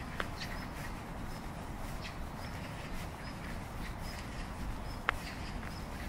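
Small birds chirping with short, high, repeated calls over a steady low background noise. Two sharp clicks stand out, one right at the start and one about five seconds in.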